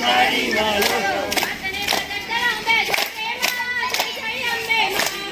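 A group of voices singing a garba song together, with hand claps in time.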